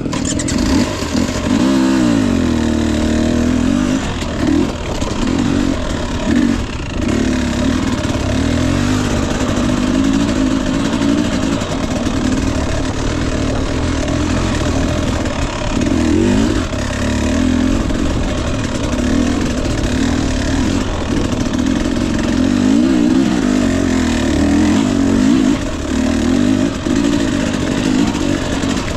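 Husqvarna TE 250i fuel-injected two-stroke single-cylinder dirt bike engine being ridden, revving up and down with the pitch rising and falling repeatedly as the throttle is worked.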